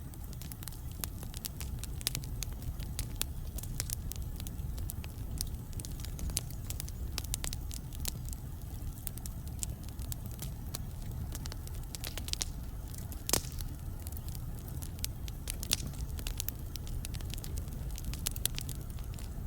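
Wood fire burning in a fireplace: a steady low rumble of the flames with constant irregular crackles and snaps, and a few louder pops.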